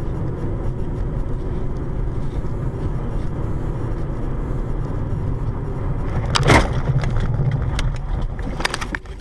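Car driving, heard from inside with a steady low road and engine rumble, then a single loud bang about six and a half seconds in: a collision. A few smaller knocks follow near the end as the rumble drops away.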